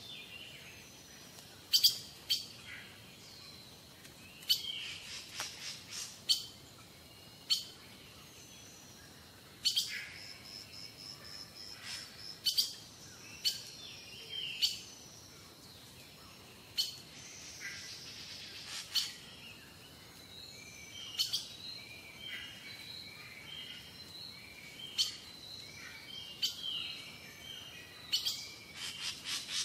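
Birds chirping and calling: many short, sharp chirps and brief high whistled notes, scattered irregularly throughout.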